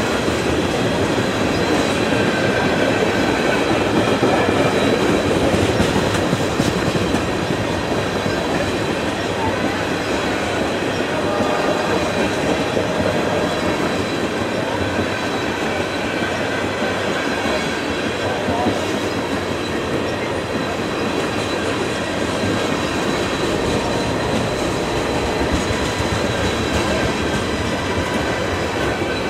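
Railroad cars rolling steadily past on the rails, with a faint, thin, steady high squeal from the wheels over the rolling noise.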